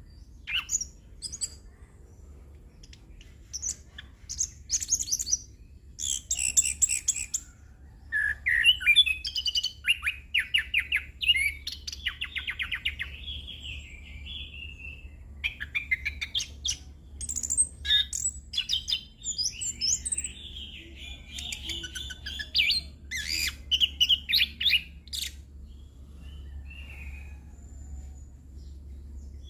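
Orange-headed thrush singing a long, continuous, varied song of quick phrases, trills and chirps, packed with notes mimicked from other birds.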